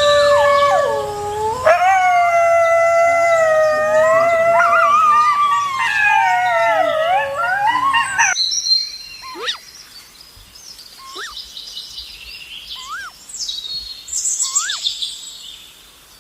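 A dog howling in long, wavering notes that cut off abruptly about eight seconds in. Then birds chirping, with one short call repeated about every two seconds.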